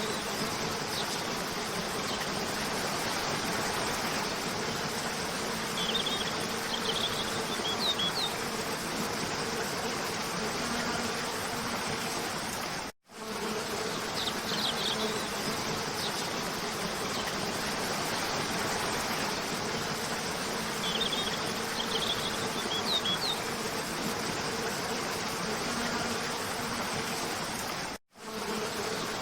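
Waterfall rushing steadily under a low, even buzz, with a few short high bird chirps now and then. The sound cuts out for a split second twice, where the recording loops.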